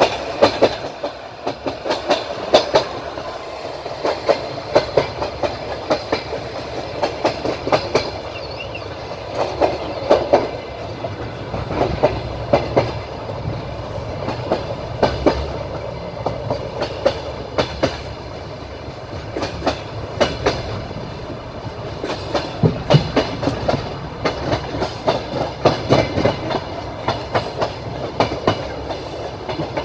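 Train wheels clicking over rail joints, heard from aboard a moving train. Groups of sharp clicks come every two to three seconds over a steady rumble of the running gear.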